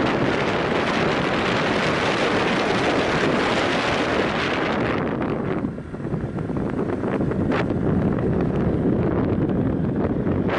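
Wind buffeting the microphone of a moving motorbike, a steady rush that briefly drops away a little over halfway through.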